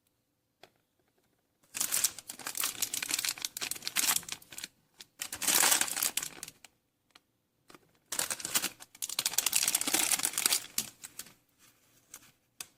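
Crinkling and crackling in three bursts of a few seconds each, with short pauses between, and a single click near the end.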